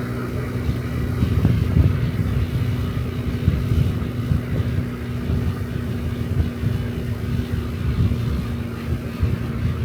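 Honda Dio Cesta 50cc scooter's four-stroke engine running steadily at cruising speed, with wind rumbling on the microphone as it rides.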